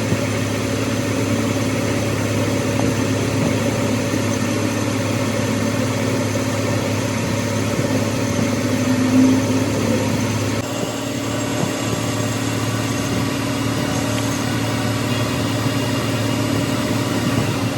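A machine running steadily at a constant speed, with a steady low hum; its sound shifts slightly about ten and a half seconds in.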